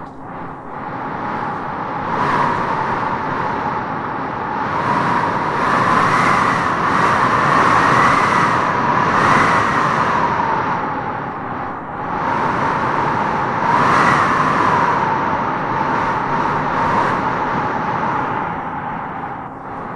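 Wind blowing in gusts, with a whistling tone that rises and falls as each gust swells. It is loudest from about six to ten seconds in and again around fourteen seconds.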